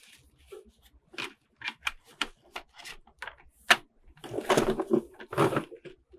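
Hands unboxing toys: a string of sharp clicks and taps from the toy pieces and packaging, then longer, louder rustles about four seconds in.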